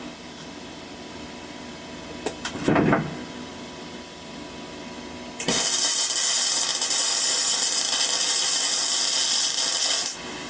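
Flux-core arc welding with a Parkside PMSG 200 welder: the arc crackles and hisses steadily for about five seconds, starting about halfway through and cutting off sharply. Earlier, about two seconds in, a few clicks and a short burst of noise.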